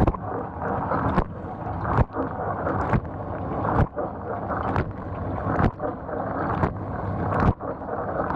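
GE GDT655SSJ0SS dishwasher running, with water spraying and splashing inside the tub over the pump. A short sharp hit sounds a little under once a second, about ten times, evenly spaced.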